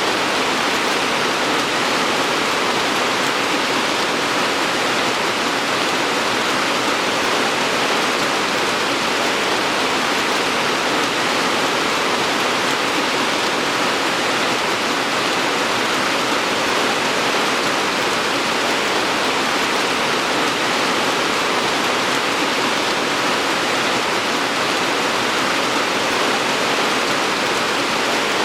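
Steady heavy rainfall, a dense even hiss with no single drops standing out and no change in intensity.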